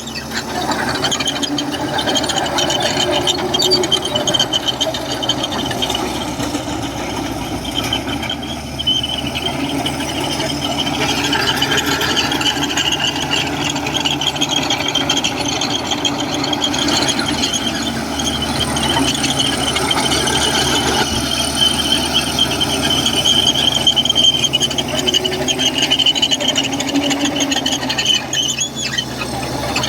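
Komatsu crawler bulldozer working: diesel engine running under load while the steel tracks squeal continuously, with a steady high-pitched squeal over the engine.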